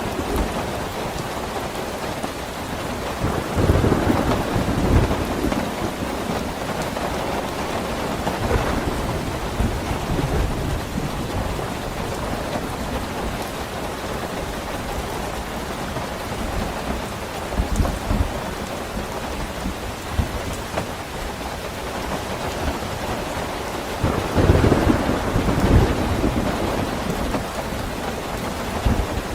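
Steady heavy rain falling, with low rolls of thunder rumbling under it: a louder roll about four seconds in and another near the end, with fainter ones between.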